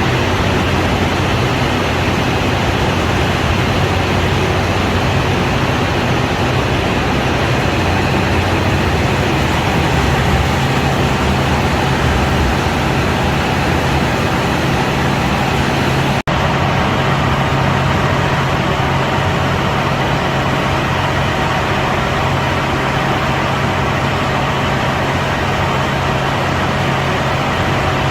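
Engine of a KiHa 183 diesel railcar running with a loud, steady drone, broken for an instant about sixteen seconds in.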